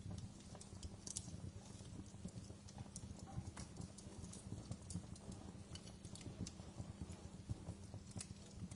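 Wood fire burning in a fireplace, with a soft low rumble and irregular sharp crackles and pops scattered throughout.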